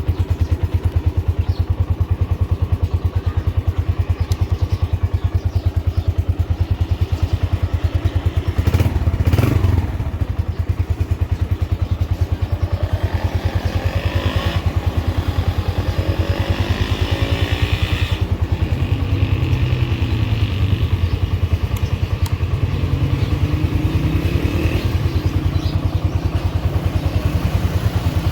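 Honda CB125F's single-cylinder four-stroke engine idling with an even, pulsing beat. The revs rise briefly about nine seconds in, and rise and fall again around twenty seconds in.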